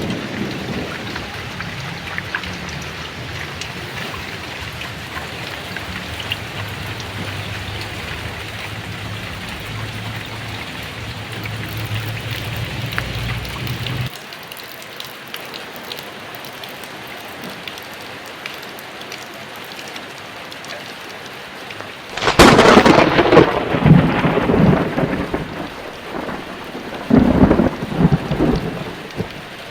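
Heavy rain falling steadily, with a low thunder rumble in the first half that cuts off suddenly about halfway. About two-thirds of the way in comes a loud, sudden thunderclap that rolls on for a couple of seconds, followed a few seconds later by a second, shorter peal.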